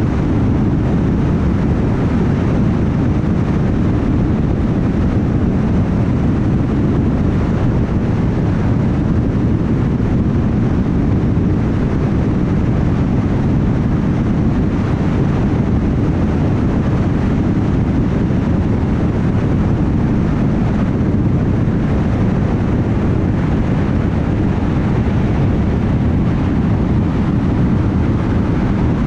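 Steady road noise of a car cruising on a highway: a low, even rumble of tyres on the road, with engine and wind noise and no separate events.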